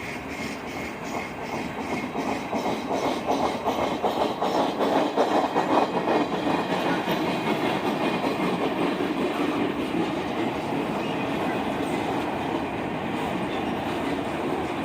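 A train passing close by, its wheels clacking rhythmically over rail joints, loudest about five seconds in before settling into a steady rolling rumble.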